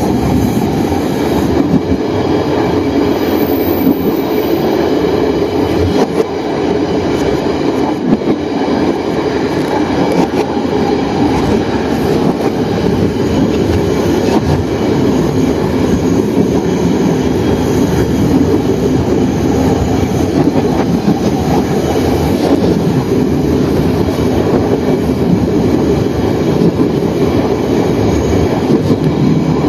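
Train running along the track, heard from the front of the locomotive: a steady running noise of engine and wheels on rails, with faint irregular clicks.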